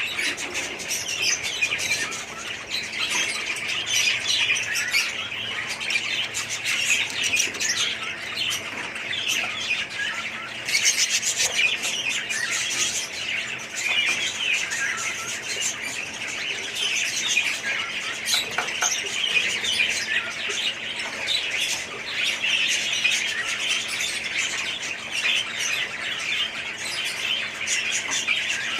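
A flock of small parrots chattering and chirping continuously, many overlapping calls with occasional squawks.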